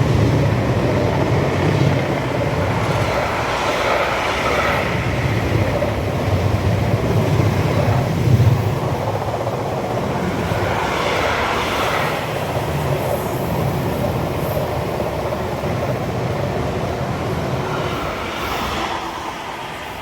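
Freight train hauled by a Class 66 diesel locomotive passing through the station, its wagons rumbling and clattering over the rails in repeated swells, fading near the end.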